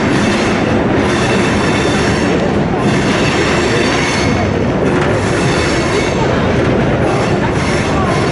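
Royal Gorge Route Railroad passenger train rolling along the track, heard from on board: a steady, loud running noise of wheels on the rails.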